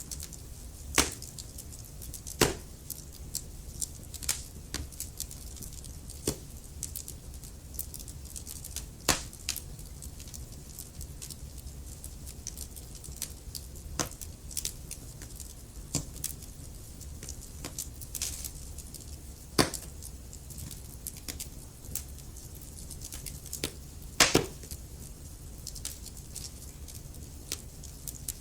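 Wood fire burning in a fireplace: irregular crackles and sharp pops, a few much louder than the rest, over a steady low rumble of the flames.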